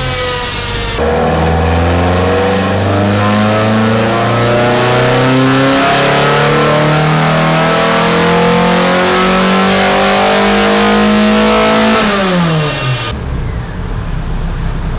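Race-prepared VW Mk1 Golf's engine on a chassis dyno, briefly falling in revs and then making a full-load power run: the revs climb steadily for about eleven seconds. Near the end the throttle is lifted and the revs drop away quickly to a low idle.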